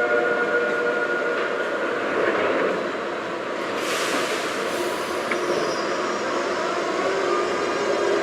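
TTC subway train running on the Sheppard line: a steady rail rumble with a few steady whining tones and a brief hiss about four seconds in.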